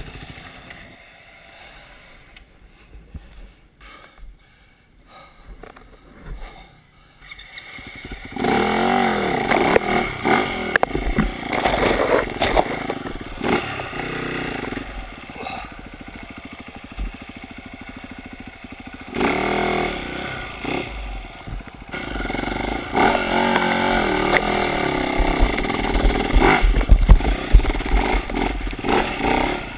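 Dirt bike engine, quiet for the first several seconds, then coming in loud about eight seconds in and revving up and down as the bike rides the trail, with clattering and scraping along the way.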